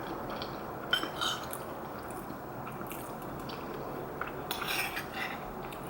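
Eating utensils clinking lightly against a soup bowl: a sharp clink about a second in and a few softer clinks and scrapes toward the end.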